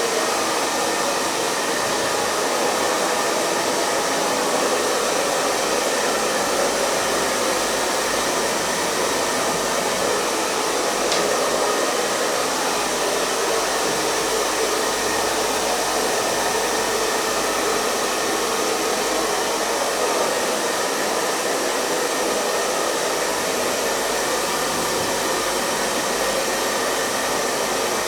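Hair dryer running continuously at a steady speed: an even, unbroken rushing of blown air over the motor's hum, with no change in pitch or level.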